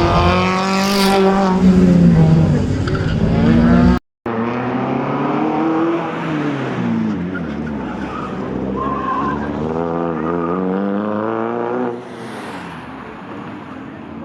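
Modified car engine revving hard, its pitch climbing and falling repeatedly as it is driven through the gears. A sudden cut about four seconds in leads to a second run of rising and dropping revs, which turns quieter near the end.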